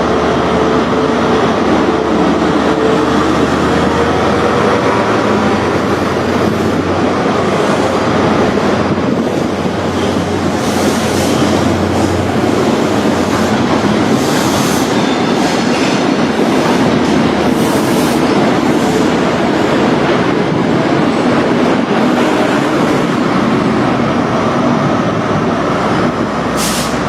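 Diesel passenger train pulling out of the station, its engine running with a steady low drone under loud wheel and rail noise. Short high-pitched squeals or hisses come and go through the middle.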